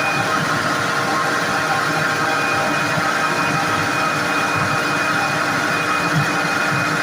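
Caterpillar 3412 V12 diesel engine running steadily after its fuel injection pump timing has been set, with a steady high whine over the engine noise.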